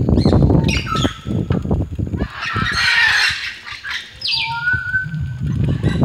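Several birds calling, with short high calls and a clear held note about four seconds in, over low rumbling noise from the phone being handled while walking.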